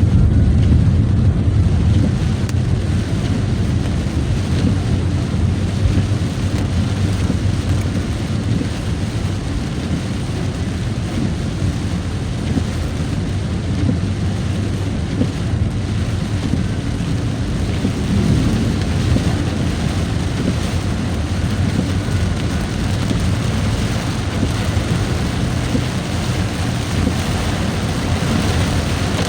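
Steady rain and road noise while driving, a low even rumble with a hiss of rain over it.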